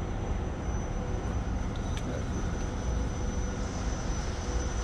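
Steady low machinery rumble with a faint, steady high whine over it.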